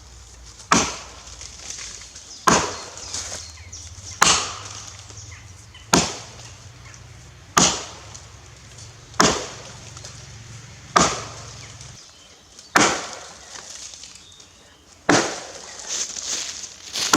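Axe chopping into a log in a steady rhythm: nine strikes, about one every second and three quarters, each a sharp crack of the blade biting into wood.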